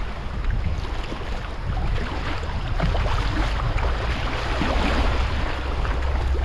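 River water rushing and splashing around a moving kayak, with wind rumbling on the microphone, heavier near the end.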